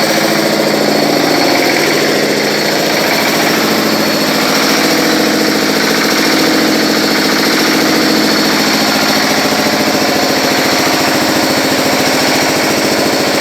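Diesel engine running steadily at a constant speed, with a rapid, even knock.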